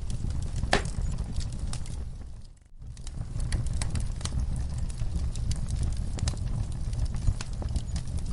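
Wood fire crackling, with irregular sharp pops and snaps over a steady low rumble of the flames. There is one loud pop about a second in. The sound briefly drops out almost to silence between two and three seconds in.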